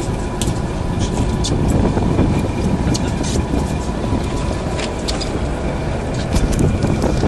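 A fishing boat's engine running steadily under a dense rumble of wind and water noise, with scattered light clicks.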